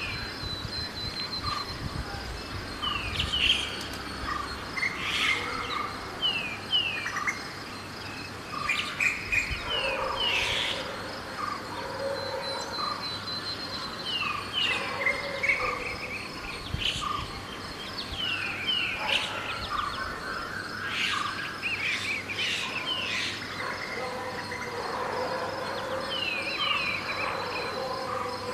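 Birds chirping in a dawn chorus, with many short, repeated falling chirps. Underneath runs a steady high insect buzz, and wind rumbles on the microphone during the first few seconds.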